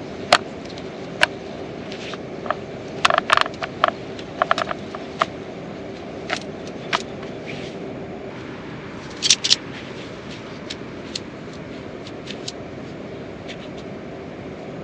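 Steady rain hiss with irregular sharp clinks and taps over it: a quick cluster about three seconds in and another pair about nine seconds in.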